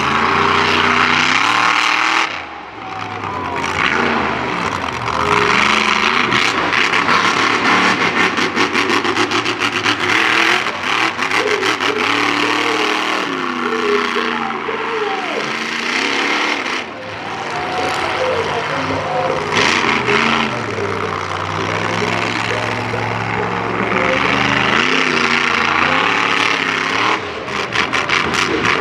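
Monster truck engine revving hard during a freestyle run, its pitch climbing and falling again and again with the throttle. There are short drops in level about two seconds in, around seventeen seconds and near the end.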